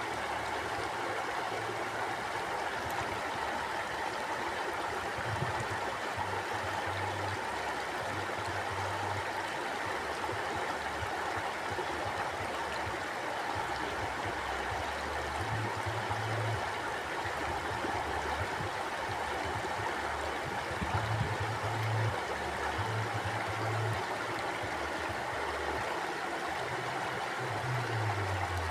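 Stream water flowing and rushing steadily, with a low rumble that comes and goes underneath.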